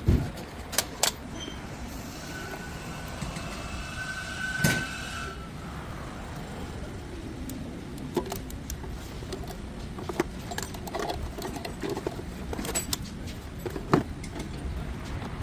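Workshop sounds during a clutch job: scattered clicks and knocks of tools and parts over a steady low hum, with a sharp knock about four and a half seconds in and another near fourteen seconds.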